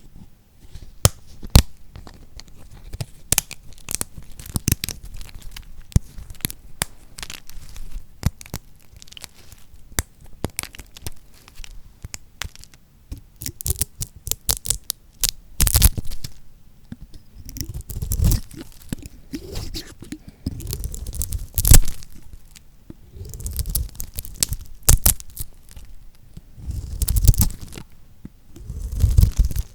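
Lacquered soap being cut with a knife: a run of crisp crackles and crunches, with heavier crunching bursts every few seconds in the second half.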